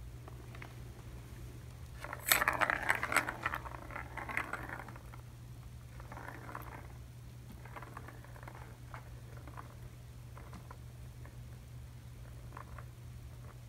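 Kittens at play with a ball-tower cat toy: a burst of rattling and clattering about two seconds in, lasting a couple of seconds, then lighter scattered rattles and clicks.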